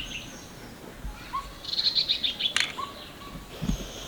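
Small birds chirping: short, hooked chirps repeat throughout, with a quick run of high twitters about two seconds in. A sharp click follows shortly after, and a dull thump comes near the end.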